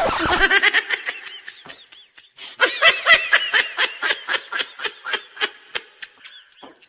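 High-pitched laughter in rapid, repeated 'ha-ha' pulses, in two bouts with a short pause between, tapering off near the end.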